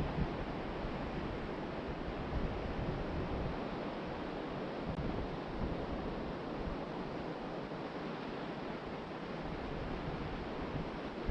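Ocean surf washing steadily onto a beach, with wind buffeting the microphone in an uneven low rumble.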